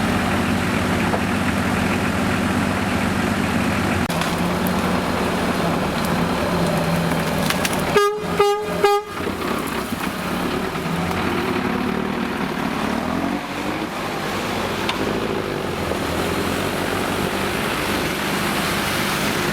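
A vehicle engine runs steadily throughout, and about eight seconds in a vehicle horn gives three short toots in quick succession.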